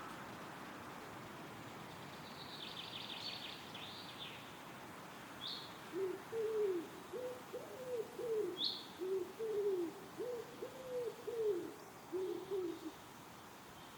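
A pigeon cooing a run of low, soft notes in short groups for about seven seconds, starting about six seconds in, over a steady rustle of wind in the trees. Brief high chirps from small songbirds come before it.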